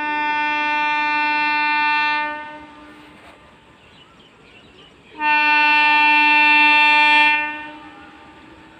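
MEMU train horn sounding two long blasts of about two and a half seconds each, a few seconds apart, each a single steady note.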